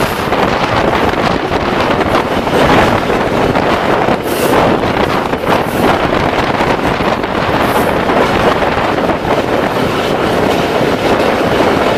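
Running noise of a moving passenger train heard from a coach window: a steady rumble and rattle of the wheels on the track, with wind buffeting the microphone.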